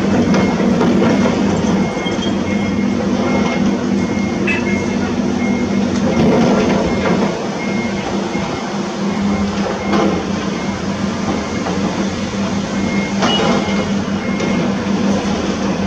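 Heavy construction machinery running steadily with a deep engine hum, with faint high beeps repeating about twice a second and a few metallic knocks.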